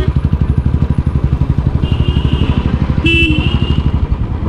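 Royal Enfield motorcycle's single-cylinder engine running at low road speed with an even, rapid beat. A horn sounds briefly about two seconds in and again about three seconds in.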